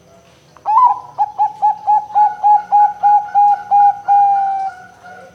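Zebra dove (perkutut) singing: a rising opening note, then a rapid run of about a dozen short, even coos, ending in one long drawn-out note that fades away.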